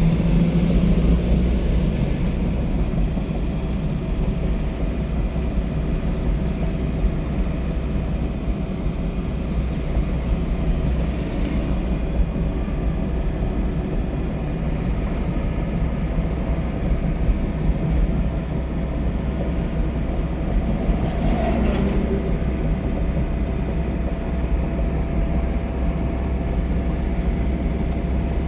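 Steady low rumble of a vehicle in motion, with a brief whoosh about eleven seconds in and another about twenty-one seconds in.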